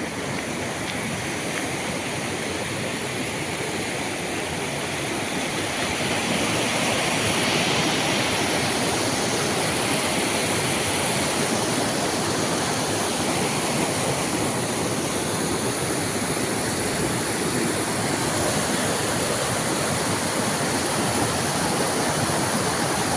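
Waterfall's rushing water, a steady roar of falling water that grows louder over the first several seconds and then holds even.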